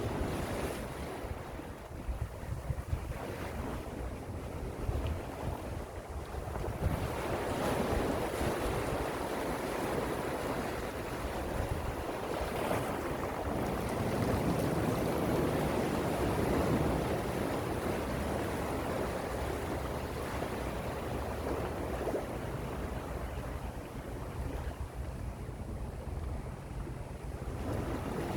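Gentle sea waves washing ashore: a steady wash of surf that swells for several seconds, eases off, and builds again near the end.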